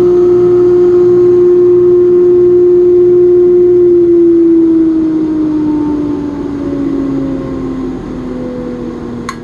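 Baldor grinder and its dust-collector blower running with a steady whine. About four seconds in the machine is switched off, and the whine slides steadily down in pitch and fades as the motor coasts down. There is a short click near the end.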